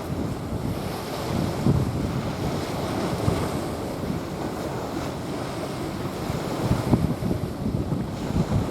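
Small waves washing onto a sandy beach, with wind buffeting the microphone in irregular low gusts.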